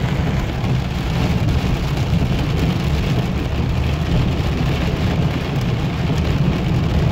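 Heavy rain pelting a car's roof and windshield, heard from inside the cabin over a steady low road and engine rumble.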